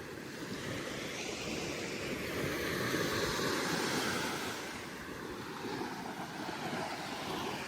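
Surf washing onto a sandy beach, the wash swelling to a peak about three seconds in and then easing off.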